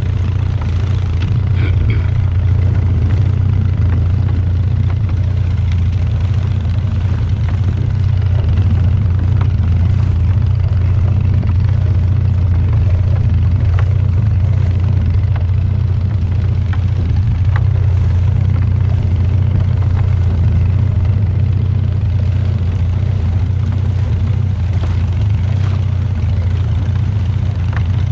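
Fishing boat's engine running steadily with a loud, deep, even hum.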